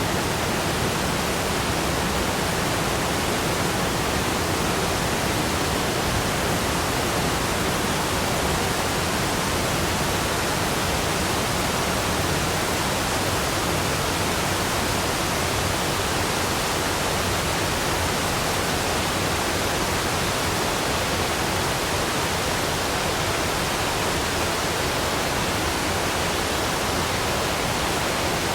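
Waterfall: water falling in a steady, unbroken rush with no changes.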